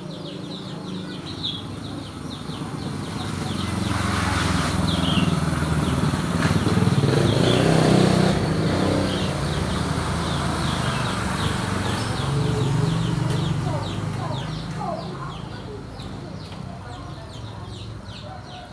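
A motor vehicle engine passes by, growing louder to a peak about eight seconds in and then fading away. Chickens and small birds call throughout.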